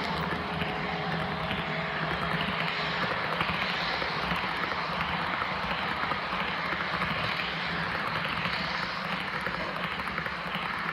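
Broadway Limited Paragon 3 AC6000 HO-scale model locomotive's onboard sound system playing a steady diesel engine sound through its small speaker as the model runs.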